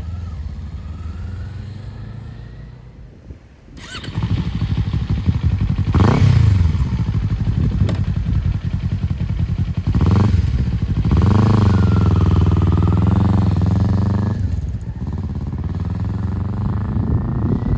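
A motor vehicle engine running, louder after about four seconds, revving up and down several times, and held at higher revs for a few seconds.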